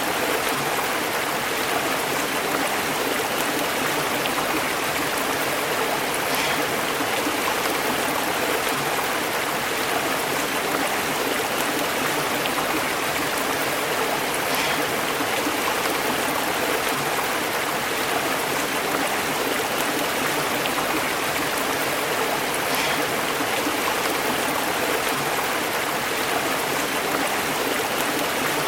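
Shallow stream babbling and bubbling over rocks: a steady, dense rush of water with small splashes now and then.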